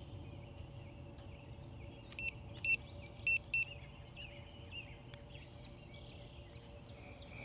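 Four short, high electronic beeps a little over two seconds in, irregularly spaced. Behind them are a faint steady hum and faint bird chirps.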